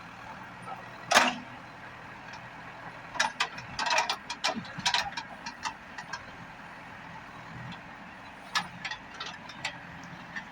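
CAT 424B backhoe loader's diesel engine running steadily under work, with a loud clank about a second in and bursts of sharp metallic knocks and clatter from the machine in the middle and near the end.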